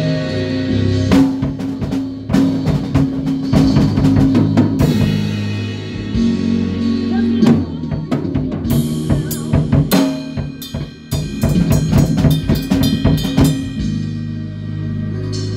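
A band playing an instrumental passage: a drum kit with snare and cymbal hits over a steady bass line. The hits come thickest in the middle and late part.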